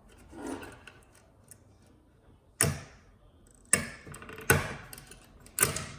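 Four sharp clicks and clacks of tools and hard parts being handled while working a speaker loose from a flat-screen TV's housing, after a soft scrape about half a second in.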